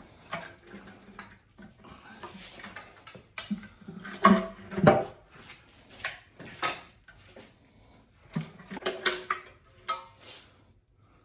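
Irregular metal clanks and clinks of hand tools and engine parts being handled as the oil pan and baffle come off an engine, with a few louder clatters a little past four seconds, near five seconds and near nine seconds.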